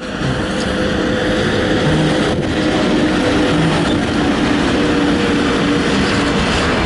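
VL80S two-section AC electric locomotive hauling a freight train: a loud, steady rumble with a droning hum from its electrical equipment running through it.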